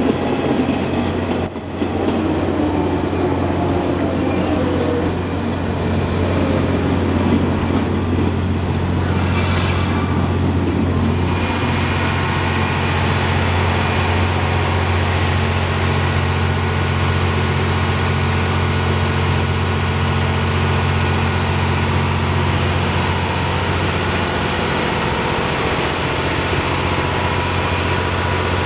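Railway train at a station: rumble of wheels on rail for about the first ten seconds, with a brief high squeal near ten seconds in, then a steady low hum of the train standing or moving slowly.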